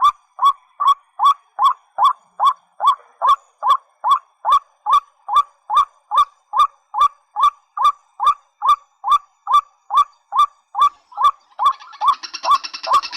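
A rail gives the same short, curved call over and over, evenly, about two and a half times a second, as on a looped recording used to lure waterhens and watercocks. Near the end, music with singing comes in over the calls.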